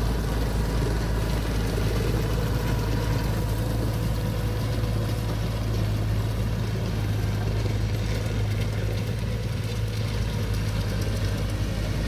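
Diesel engine of farm harvest machinery running steadily at a constant speed, a low even hum.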